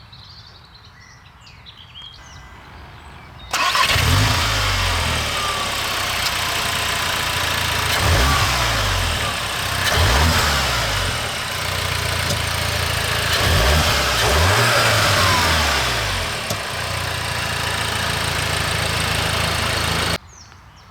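Audi S3's 2.0-litre turbocharged four-cylinder with Akrapovic exhaust starting with a sudden loud flare about three and a half seconds in, then idling with several short blips of the throttle that rise and fall. The sound cuts off abruptly near the end.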